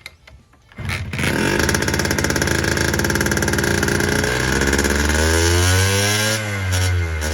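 Honda NSR50's two-stroke single-cylinder engine catching about a second in and running unevenly, its revs climbing, dropping and climbing again. It is running on a faulty carburetor.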